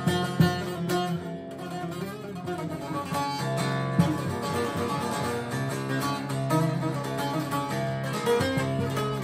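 Divan bağlama with a mulberry-wood bowl being played: a plucked, strummed melody over ringing low drone strings.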